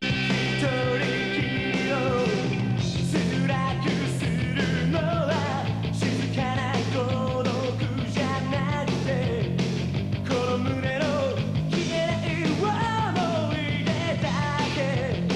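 A rock and roll band playing live: a full band with a steady beat and a melodic line bending up and down over it.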